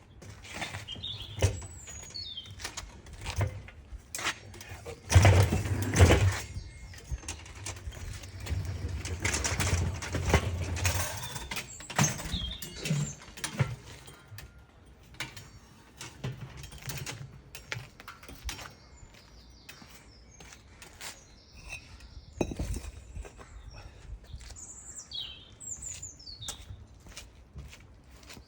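Irregular scrapes and knocks of hand work, with small birds chirping now and then over them, and a heavier low rumbling stretch from about five to eleven seconds in.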